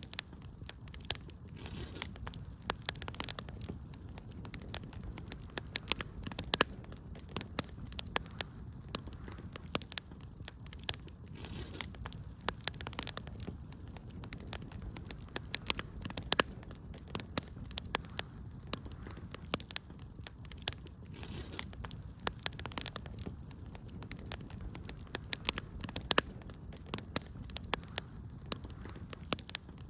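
Wood fire crackling steadily, with many sharp irregular pops and snaps over a low, steady rumble of the flames.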